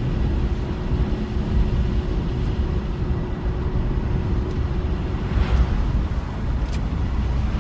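A car driving on a snowy road, heard from inside the cabin: a steady low rumble of engine and tyre noise. A brief hiss comes about five and a half seconds in.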